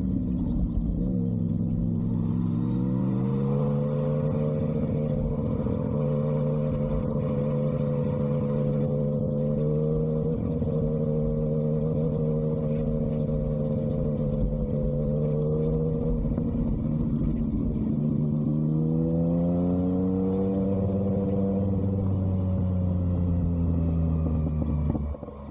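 Yamaha MT-09's three-cylinder engine running through an SC-Project aftermarket exhaust while riding. The engine note rises about two seconds in and then holds steady for a long stretch. It dips and climbs again about three-quarters of the way through, eases off, and drops away sharply just before the end.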